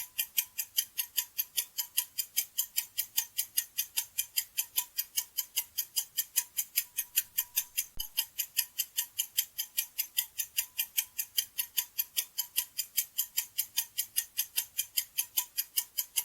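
Ticking clock sound effect, an even run of about four quick ticks a second, marking thinking time before the answer is given.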